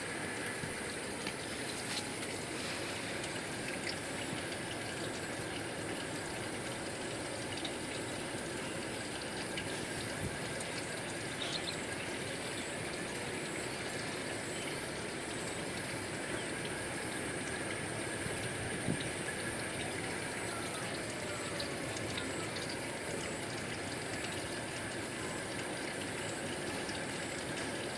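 Steady outdoor ambience of running, trickling water, with a few faint short chirps, more of them near the end.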